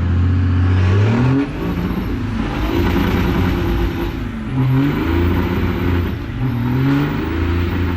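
Second-gen Dodge Ram's Cummins diesel engine accelerating hard, its pitch climbing and then dropping several times as the truck shifts up through the gears.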